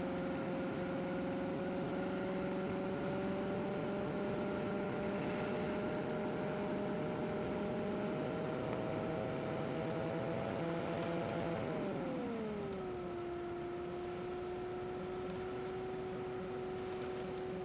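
Light-sport trike's engine and propeller droning steadily in flight, pitch creeping slowly upward; about twelve seconds in the engine speed drops quickly and settles into a lower steady drone, power coming back on final approach to land.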